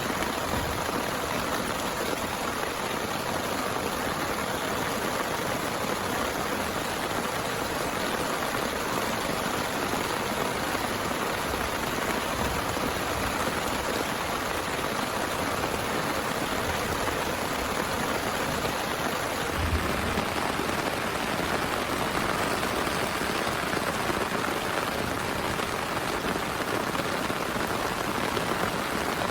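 Heavy rain falling steadily, a dense even hiss of drops, with one soft low thump about two-thirds of the way through.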